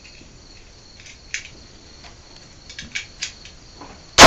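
Crickets chirping faintly, then a little over four seconds in a single very loud rifle shot from an AK-pattern rifle, with its echo trailing off.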